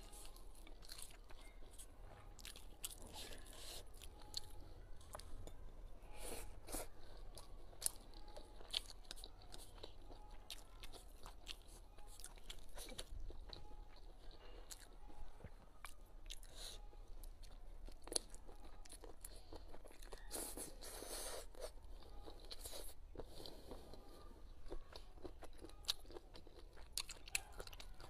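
Close-miked chewing and biting of a mouthful of fried squid with green chili peppers and rice, with many short, sharp mouth clicks.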